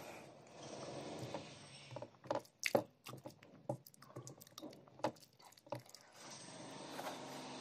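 Close-up chewing and wet mouth smacking of a mouthful of rice and fish curry, with a run of irregular clicks between about two and six seconds in. A low steady hum lies underneath.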